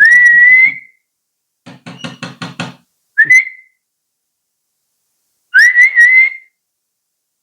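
Three short, loud rising whistles, the last one wavering, with a quick run of rapid pulses between the first two.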